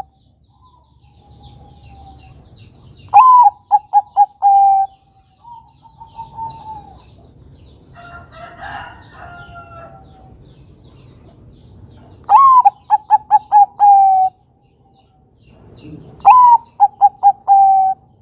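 Zebra dove (perkutut) cooing: three loud song phrases, each a sharp opening note followed by a quick run of short clipped notes and a longer held coo. Fainter coos and small bird chirps sound in between.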